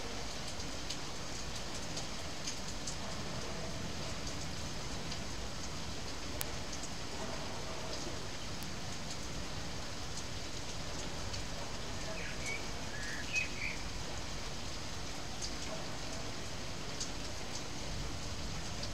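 Steady rain falling, with occasional sharp ticks of drops striking close by. A bird chirps a few times about two-thirds of the way through.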